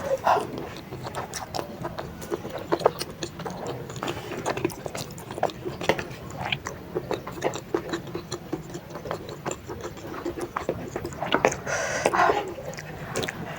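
Close-miked chewing and biting while eating baso aci, chewy tapioca balls in a spicy broth: a steady run of small wet mouth clicks and smacks.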